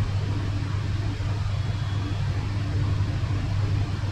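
Steady low mechanical hum, like a motor or engine running, with a fainter higher tone that comes and goes.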